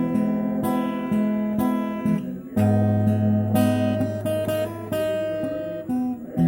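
Acoustic guitar strummed in repeated chords, changing to a new chord with a deeper bass note about two and a half seconds in.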